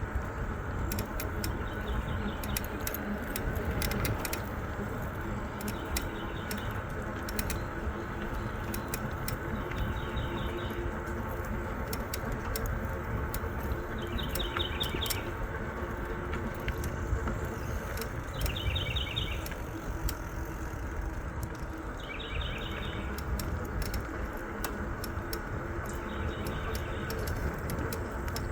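E-bike rolling along a trail: steady tyre and wind rumble with light rattling clicks. A short, high, trilled call repeats about every four seconds over it.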